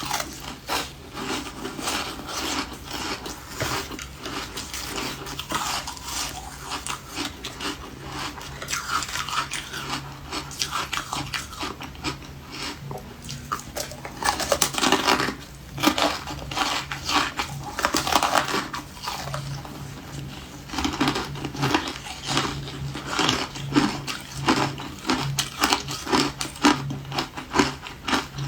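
Refrozen ice being bitten and chewed close to the microphone: a run of sharp crunches and cracks, denser and louder in the second half.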